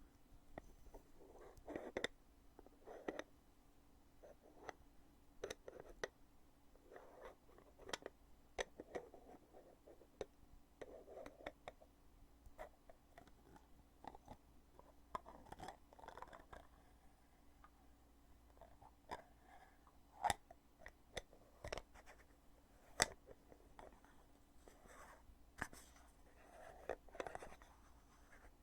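The lid of a foundation cosmetic container being opened and closed over and over: faint, irregular sharp clicks and snaps, with short soft scraping sounds between them.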